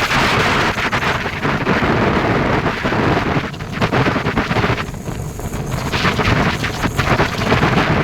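Wind buffeting the microphone on a moving Honda CBR motorcycle, with the bike's running and road noise underneath; the rush eases briefly about five seconds in.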